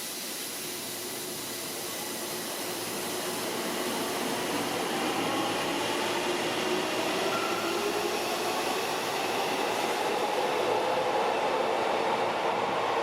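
Electric subway train running in an underground station, growing louder over a few seconds, with a faint whine that slowly rises in pitch.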